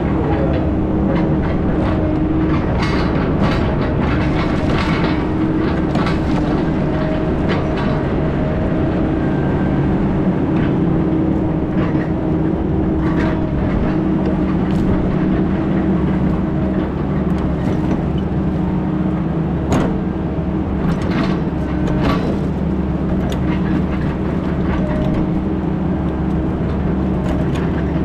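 Heavy diesel engine running steadily under load, with scattered clanks and rattles of loose metal over the drone.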